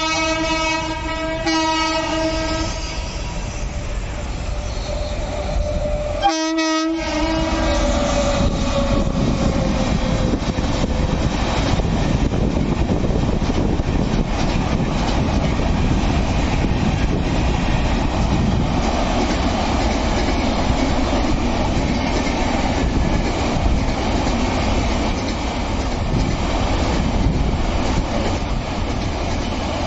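Indian Railways train locomotive sounding its horn twice, the second blast about six seconds in sliding down in pitch as it goes by. The train then runs past at speed: a steady rumble of wheels and coaches with clickety-clack over the rail joints.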